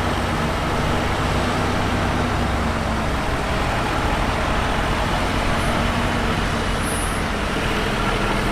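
Heavy diesel engine of earth-moving equipment running steadily, with a low, even engine drone.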